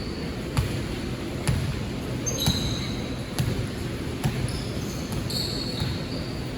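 Basketball being dribbled on a court, sharp bounces about once a second, with a few short high squeaks in between.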